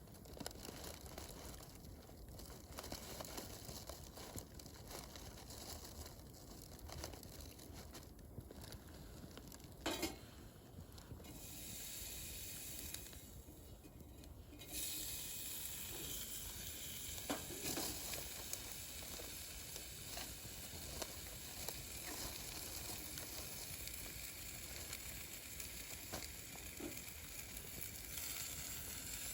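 Wood fire burning: a steady hissing with a few sharp crackling pops. The hiss grows louder about halfway through.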